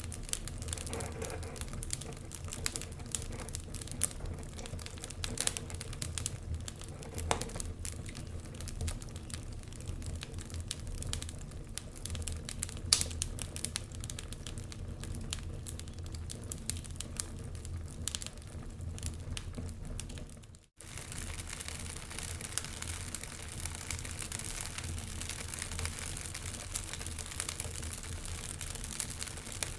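Wood fire in a fireplace crackling: irregular sharp pops and snaps over a steady low rumble of the flames. The sound cuts out for an instant about two-thirds of the way through, then carries on with a denser hiss.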